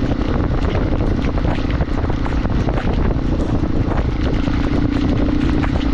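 Motorcycle engine running steadily while riding, with heavy wind buffeting and crackling on the microphone.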